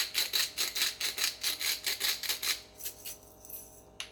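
Salt and pepper being added over a bowl of beaten egg: a quick, even run of short strokes, about six a second, thinning out after about two and a half seconds.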